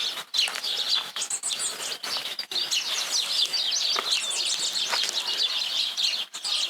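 Songbirds chirping and singing together in a busy, high twittering.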